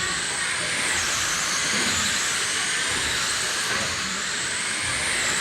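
Brushless electric RC late model cars racing on a dirt oval: a high motor whine that drops about a second in and climbs back, then dips again near the end as the cars slow and accelerate, over a steady hiss of tyres on dirt.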